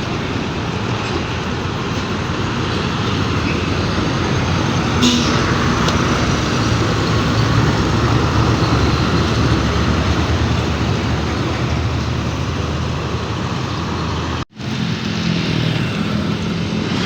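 Road traffic with heavy diesel trucks running, a steady dense rumble. A short hiss comes about five seconds in, and the sound drops out for an instant near the end at a cut.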